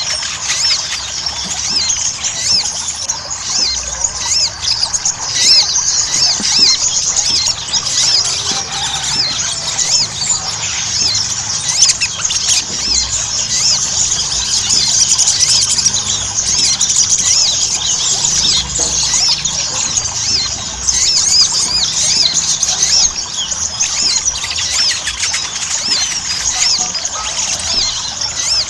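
Ruby-cheeked sunbirds (sogok ontong) singing without pause: a dense, unbroken stream of fast, high chirps and twittering trills, several voices overlapping.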